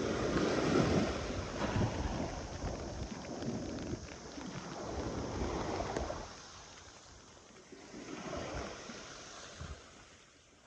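Sea waves washing in: a long surge of rushing water over the first six seconds or so, easing off, then a smaller surge near the end.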